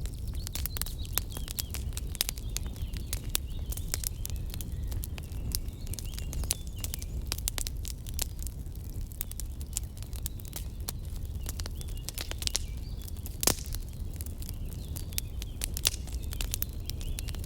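Wood campfire crackling with dense, irregular pops over a low rumble, with one sharp, louder pop about thirteen seconds in.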